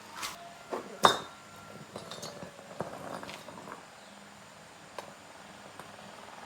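Small metal parts and hand tools clinking and knocking against each other, with one sharp clank just after a second in and lighter clicks after it.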